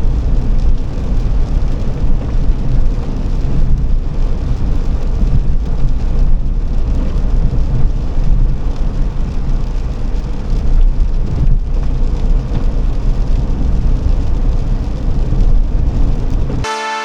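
Car on the move: steady road and engine noise with a heavy low rumble. It cuts off abruptly near the end, where brass music starts.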